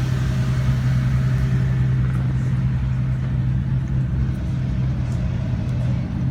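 Car engine idling steadily with a deep, even low hum.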